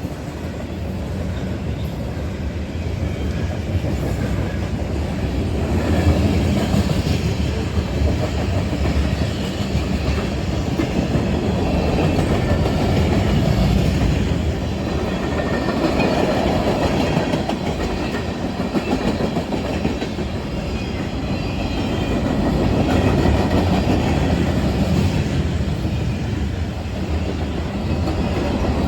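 Eastbound CSX freight train rolling past close by, its cars' wheels running over the track in a steady rumble that swells and eases.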